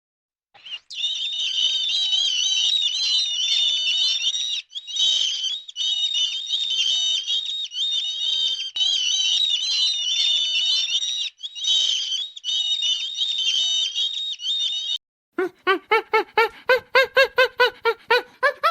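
A flock of small birds twittering and chirping, high-pitched and continuous, broken by a few abrupt gaps. About fifteen seconds in it gives way to a different animal: a fast run of short, pitched calls, about four a second.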